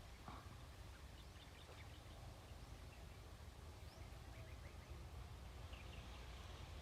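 Near silence outdoors, with a few faint, short bird chirps scattered through it over a low steady background rumble.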